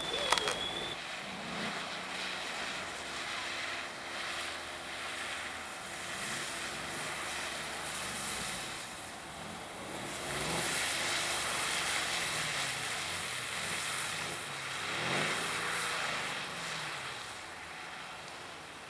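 Mercedes-AMG V8 engine revving up and down repeatedly as the car is driven hard around a track, with an even hiss of noise under it. It grows louder through the middle and dips and climbs again about three quarters of the way in.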